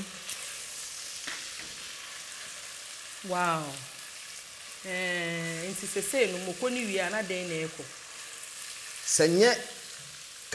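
Tomato mixture sizzling and frying in oil in a pot on a gas hob, stirred with a plastic spatula. A person's voice comes in briefly about three seconds in, again from about five to eight seconds, and loudest near the end.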